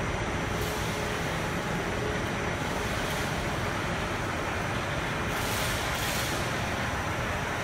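HVAC duct production line machinery running: a steady, even machine noise with a faint hum, and a few brief hisses, the longest about five to six seconds in.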